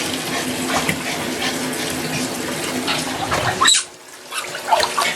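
Water running from a tap during a dog's bath, shut off abruptly about three and a half seconds in.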